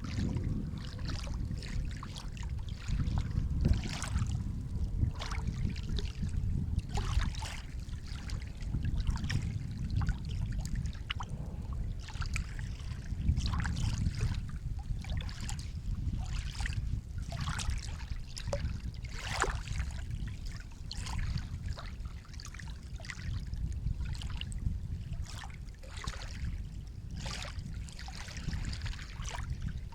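Sea water washing and lapping at the shore, a steady low rumble of surf under frequent small splashes and trickles.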